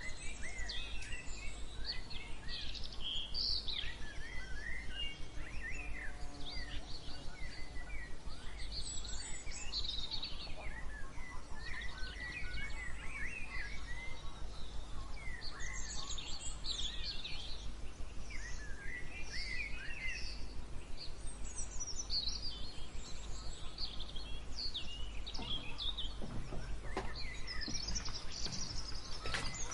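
Several songbirds chirping and trilling in a morning chorus, short overlapping calls throughout, over a steady low background hum. A few faint knocks come near the end.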